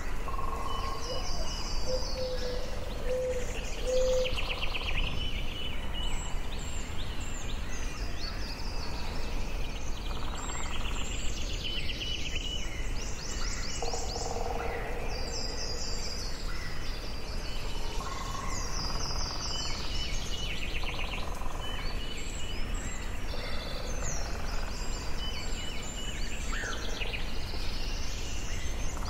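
Forest ambience: several songbirds singing at once, overlapping trills and chirps with a few lower whistled notes, over a steady low background hiss.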